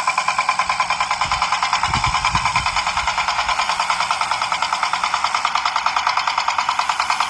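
Small motor-driven model machine running with a fast, even pulse of about ten beats a second, with a few low thumps a couple of seconds in.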